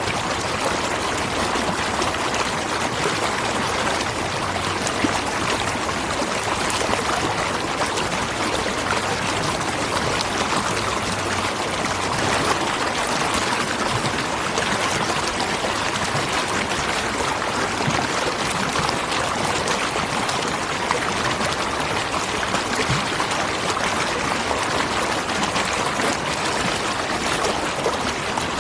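Water pouring over a natural waterfall: a steady, unbroken rush of falling and splashing water.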